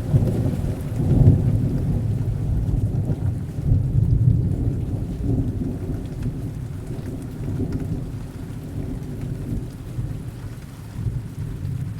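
Heavy rain with a long, low rumble of thunder. The rumble is loudest in the first five seconds, swelling twice, then slowly dies away under the steady rain.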